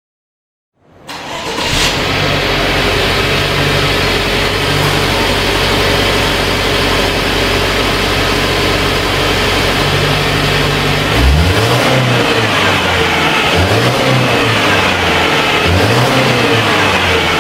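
Ford Capri on its stock exhaust. The engine idles steadily, then from about eleven seconds in it is revved in a series of short throttle blips, the pitch rising and falling four or five times.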